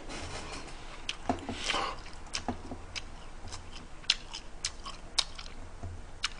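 A man chewing a mouthful of food close to the microphone, with many short wet mouth clicks and smacks.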